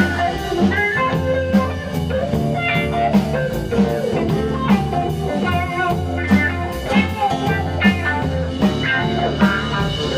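Blues-rock band playing an instrumental break: an electric guitar lead over bass and a steady drum-kit beat.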